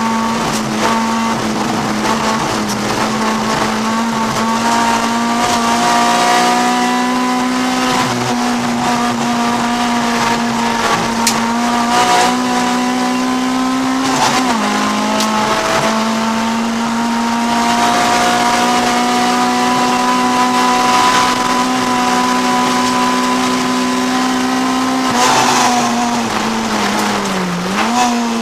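Honda CRX's B20 VTEC four-cylinder race engine heard from inside the cabin, held at steady high revs. The revs dip briefly and recover about halfway through, then waver and drop near the end.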